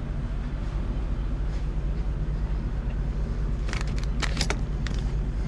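A motor vehicle running steadily, a low engine and road rumble, with a quick run of light clicks or rattles about four seconds in.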